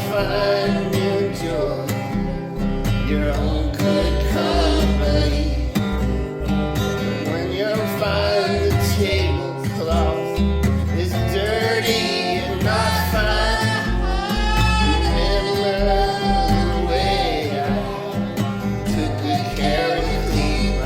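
Acoustic folk song: guitar with a wavering sung melody over a steady low bass.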